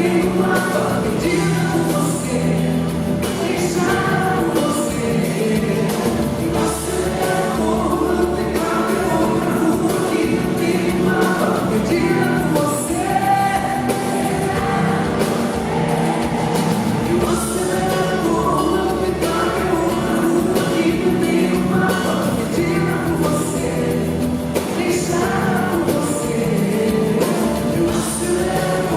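Live band music with several voices singing over steady bass notes.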